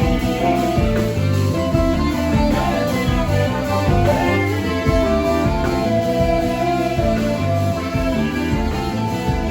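Live band playing an instrumental passage led by guitar, with bass and a steady beat underneath.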